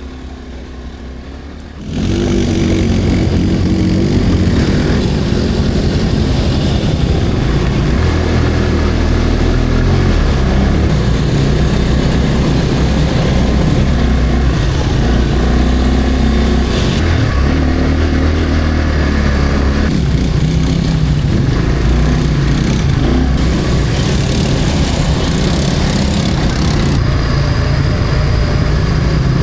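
ATV engine running and revving, its pitch rising and falling as the throttle changes; it turns much louder about two seconds in.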